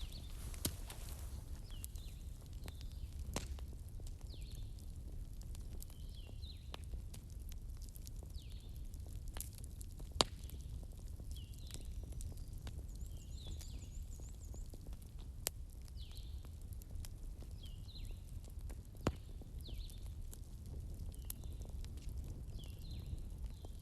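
Fireplace crackling: a steady low rumble of burning with sharp snaps every few seconds. Faint short high chirps recur throughout.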